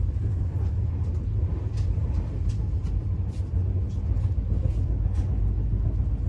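Steady low rumble of a moving passenger train, heard from inside the carriage, with faint scattered clicks over it.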